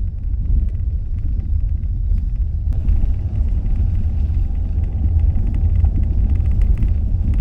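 Steady low rumble of a van driving, heard from inside the cabin: engine and road noise with no change in pace.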